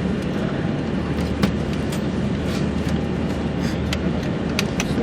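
Steady hum and rush of an Airbus A340-600's cabin ventilation while parked at the gate, with a few light clicks and knocks.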